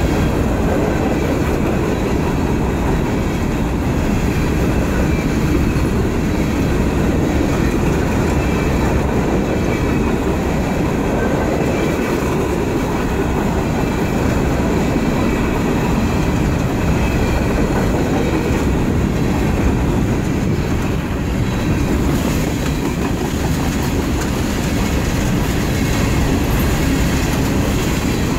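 Empty coal cars of a freight train rolling past on steel rails, a steady loud rumble of wheels on track.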